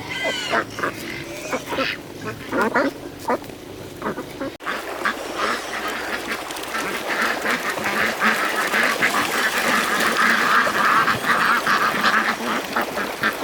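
A group of ducks quacking, the calls coming thicker and louder after about four and a half seconds.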